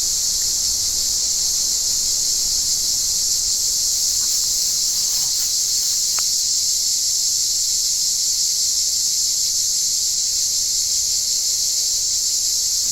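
Cicadas singing: a loud, steady, high-pitched drone that does not let up.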